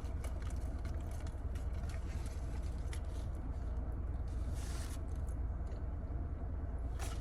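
Steady low rumble of a car cabin, with scattered small rustles and clicks, a longer rustle about four and a half seconds in and a sharper one near the end.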